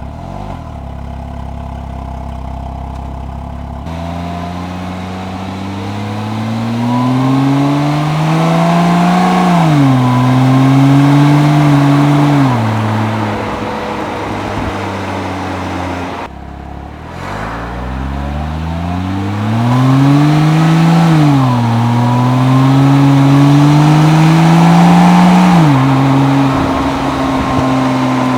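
Porsche Cayman S 987.1 flat-six on its stock exhaust, pulling hard through the gears twice. Each time the engine note climbs, drops at an upshift, climbs again and drops, then settles into a steady cruise.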